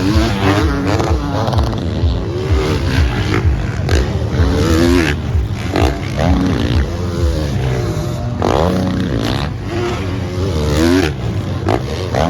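Motocross bike engines revving up and down repeatedly, with sharp rising revs about four and a half, eight and a half and eleven seconds in.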